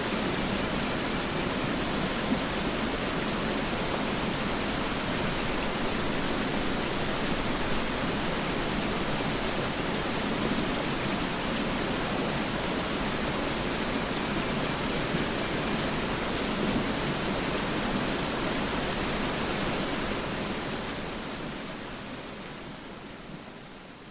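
Mountain river water rushing and flowing steadily, fading out over the last few seconds.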